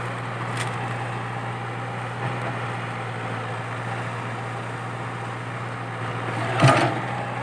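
Komatsu PC80 excavator's diesel engine running steadily, with a short, louder noise near the end.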